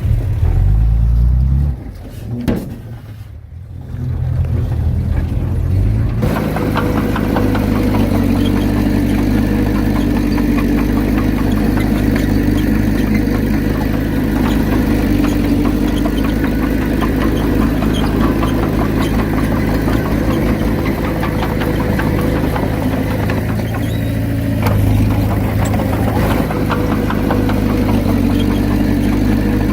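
Heavy diesel earthmoving machinery running: a low engine rumble that rises in pitch near the start, then about six seconds in an abrupt change to a steady, louder engine note with a rattling clatter.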